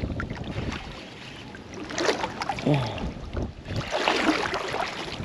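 Gusty wind buffeting the microphone, with water washing and splashing against the shore; the noise swells twice.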